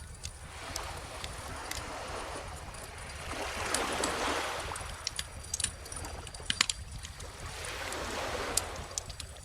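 Wood fire crackling with scattered sharp pops, over small ocean waves washing in and out in slow swells, two of them building about four and eight seconds in.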